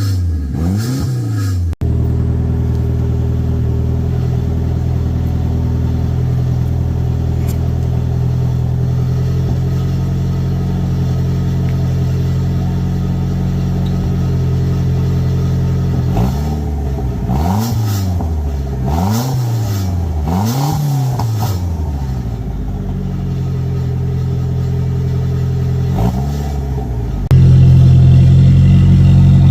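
Turbocharged Mitsubishi 4G63T four-cylinder engine running on its first start-up, idling steadily and then revved up and down several times in quick succession about halfway through, with another rev near the end. The owner says its turbo has a blown seal.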